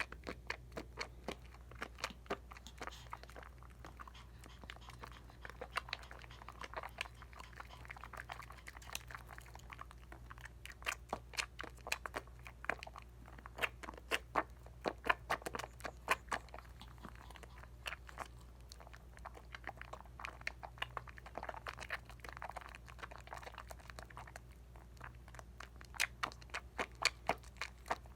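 Wet hands lathering a bar of Dial coconut soap: irregular crackling and popping of suds with soft squishy swishes, over a faint steady low hum.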